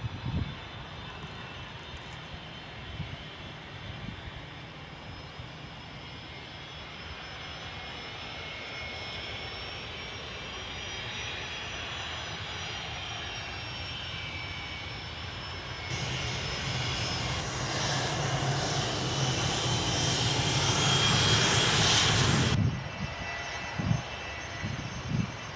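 Airliner engines whining, with several steady high tones over a rushing noise that slowly grows louder. About two-thirds of the way through, a much louder rushing noise sets in, then cuts off abruptly.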